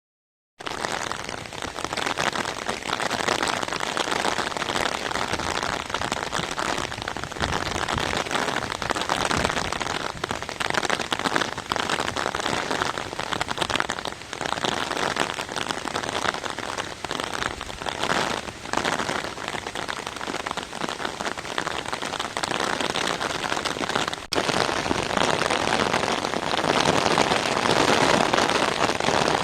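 Rain pouring down steadily, a dense even hiss of drops striking surfaces, starting abruptly about half a second in.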